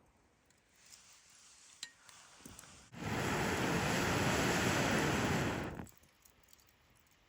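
Air being blown hard onto a wood campfire, a steady rush of air lasting about three seconds that starts and stops abruptly, with a few faint crackles from the fire before it.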